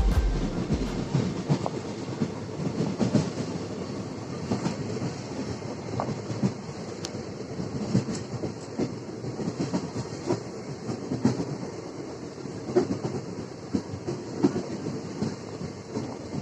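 Express train running along the track: a steady rumble with irregular clicks and knocks as the wheels pass over rail joints.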